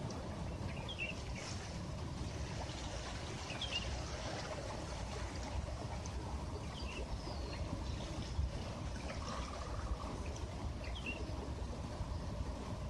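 Sea waves washing on a shore under a steady low rumble, with a bird giving a short high chirp about every three seconds.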